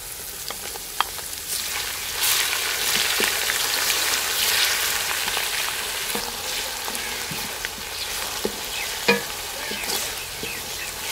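Garlic and ginger paste sizzling in hot oil with golden-brown fried onions in a steel karahi. The sizzle swells about two seconds in as the paste is stirred in with a wooden spatula, which knocks sharply against the pan a few times.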